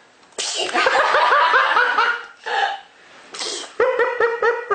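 High-pitched laughter in quick rhythmic pulses, about six a second. It comes in two bouts, the first starting suddenly with a breathy burst and the second near the end.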